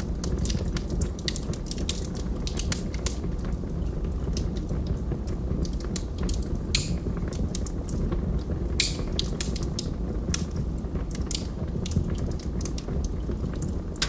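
Wood logs burning in a fireplace: irregular crackles and sharp pops over a steady low rumble of the flames, with a few louder pops spread through.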